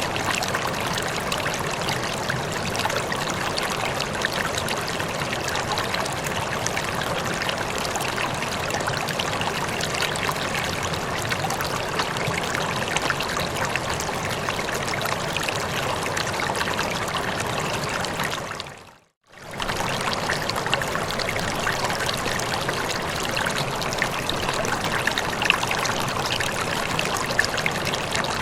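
Running water flowing and trickling steadily, like a stream. About two-thirds of the way through it fades out to silence for a moment and fades straight back in.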